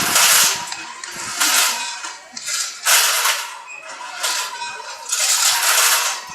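About five loud hissing bursts, each lasting half a second to a second, from the Man Engine, the giant mechanical miner puppet.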